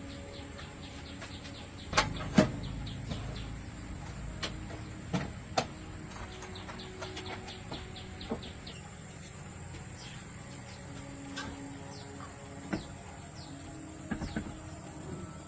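Rural background of quick repeated bird chirps and a steady high insect drone. Over it come a few scattered sharp knocks and clinks, the loudest a pair about two seconds in.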